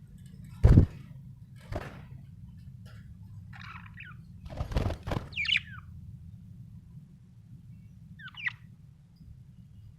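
Budgerigar giving three short chirps, with several dull thumps in between, the loudest about a second in.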